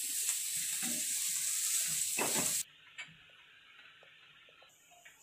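Shredded chicken and cabbage sizzling in a non-stick kadai as a wooden slotted spatula stirs and scrapes through it: a steady frying hiss with scrape strokes. The sound cuts off abruptly about two and a half seconds in, leaving near silence with one faint click.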